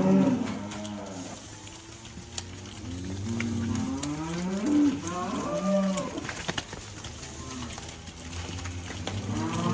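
Cattle mooing: several long calls one after another, some overlapping, each rising and falling in pitch. A few sharp knocks come about six and a half seconds in.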